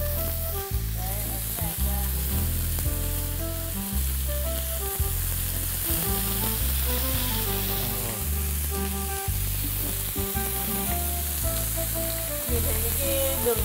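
Beef burger patties sizzling in a hot ridged grill pan as they are turned over with tongs. Background music with a changing bass line runs underneath.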